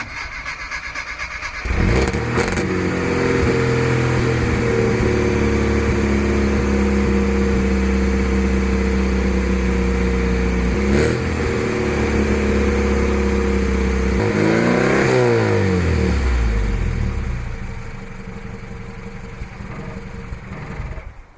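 A classic Mini's A-series four-cylinder engine is cranked on the starter, powered from a jump pack, for about two seconds, then catches and runs steadily. About fourteen seconds in it is revved up and back down, then it drops to a lower, quieter run and stops just before the end.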